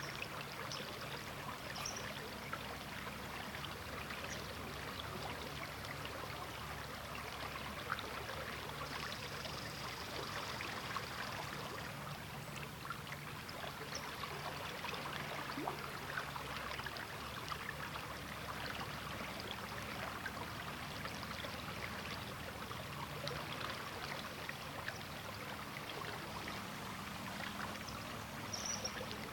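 River water flowing and babbling steadily, a constant wash of small trickles and splashes over the current.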